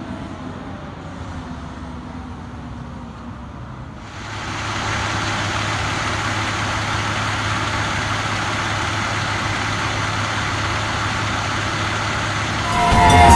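Fire engine pulling away, its siren trailing off in the first second over a low rumble. About four seconds in, a louder steady truck engine and road noise takes over and holds. Music comes in near the end.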